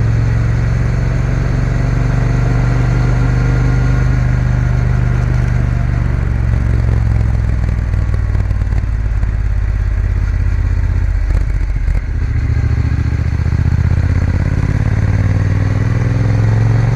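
Triumph Bonneville T120's parallel-twin engine running steadily while riding, with the sound dipping briefly about twelve seconds in.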